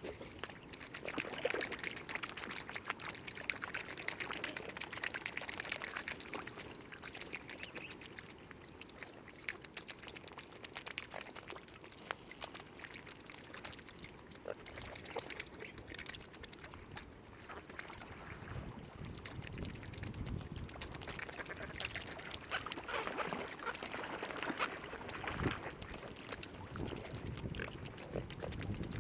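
Waterfowl calling over continuous water noise, with many small splashes and clicks.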